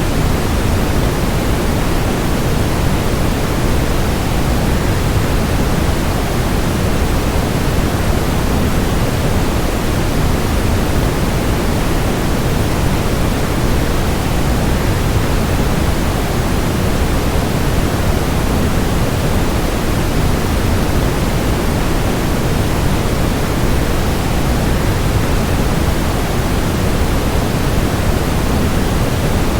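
Waterfall rush blended with white noise: a loud, deep, even rush that never changes.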